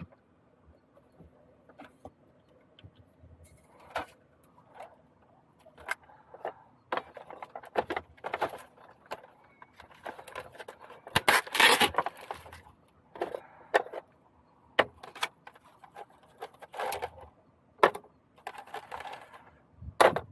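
Irregular clicks, clinks and knocks of small hard objects being handled, with a denser, louder stretch of rattling about eleven to twelve seconds in.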